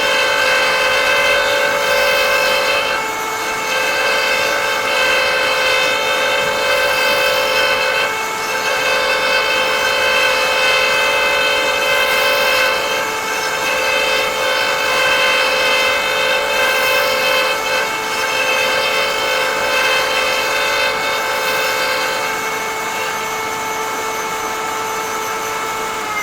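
High-speed cutter motor of a woodturning threading jig running steadily while it cuts threads into a wooden tenon, its whine and cutting noise rising and falling about every two seconds as the work turns past the cutter.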